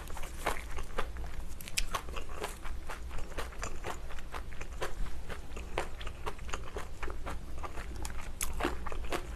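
Close-miked crunching and chewing of kimchi: many short crisp crunches in quick succession as a mouthful is bitten and chewed.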